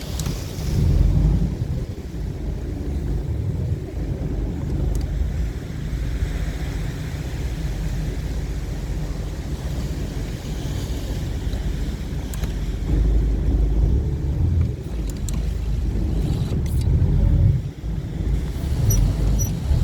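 Low, steady rumble of a small boat under way, with gusty surges of wind and water noise over it.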